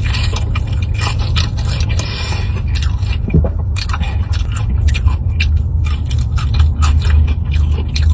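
Close-miked chewing of breaded fried mozzarella sticks, full of short crisp crunches and clicks over a steady low rumble.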